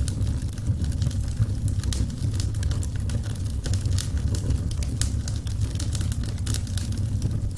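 Wood fire burning and crackling: irregular sharp pops and snaps over a steady low rumble of the flames.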